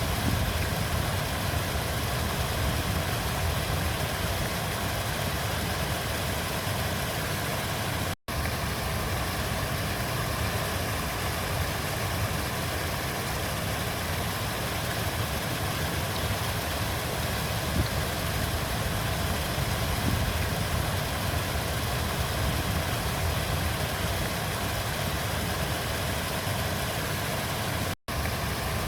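River water flowing as a steady rushing noise. It cuts out for an instant twice, about 8 seconds in and near the end.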